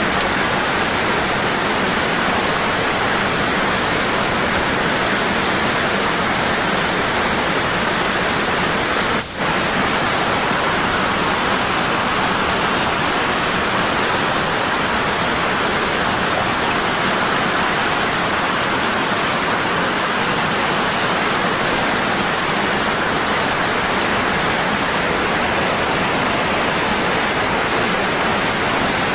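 Waterfall rushing, a strong, constant fall of water, with a momentary dip in level about nine seconds in.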